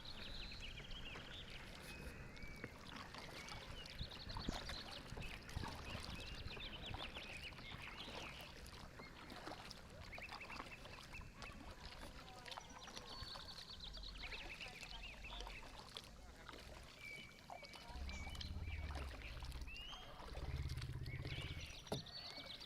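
Faint outdoor ambience with many short, high bird-like calls and chirps throughout, and two brief low rumbles near the end.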